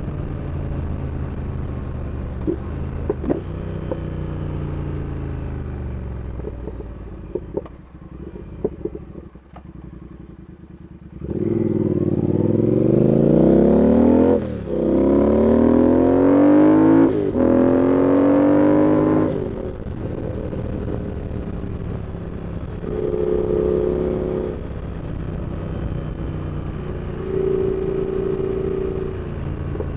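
Triumph Speed Twin's 1200 cc parallel-twin engine on the road, revs falling and the engine quieter for the first ten seconds or so. About eleven seconds in it opens up hard, with revs climbing through two quick upshifts, then it eases back to a steady cruise.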